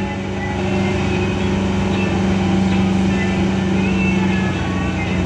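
Racing motorcycle engines running at a steady, unchanging pitch.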